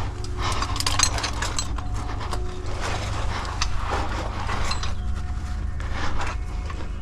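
Climbing gear clinking, and shoes and clothing scraping on sandstone, as a climber works up a rock chimney: a busy run of small clinks and scrapes over a steady low rumble.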